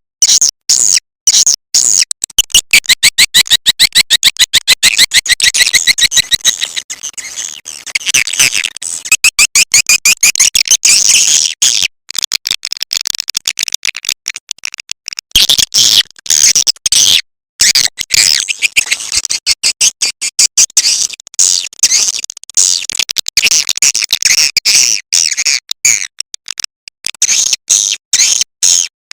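Recorded swiftlet calls: dense, rapid, high chattering twitters in runs with brief breaks. This is a call-sound track broadcast from tweeters to lure swiftlets into a swiftlet house.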